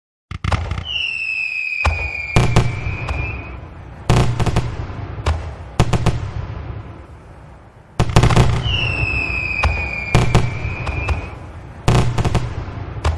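Fireworks: a whistling shell gives a long whistle that falls slightly in pitch, then a series of sharp, deep bangs, each trailing off. The same whistle and bangs come again about eight seconds in.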